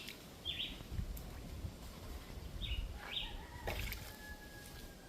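A few short bird chirps, each dropping quickly in pitch, over a low background rumble.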